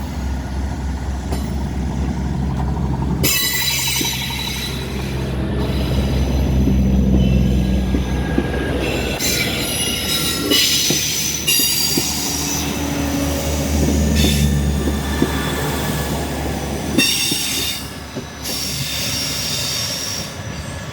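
Class 158 diesel multiple unit pulling out under power, its engines running with a low hum, while its wheels squeal in repeated bursts over the curves and pointwork.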